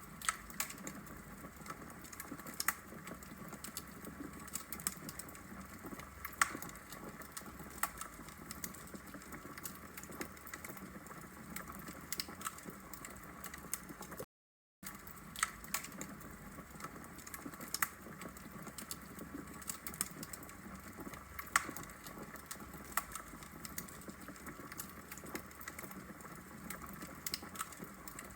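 Burning logs in a fireplace crackling, with many irregular sharp pops over a soft steady hiss. The sound cuts out briefly about halfway through.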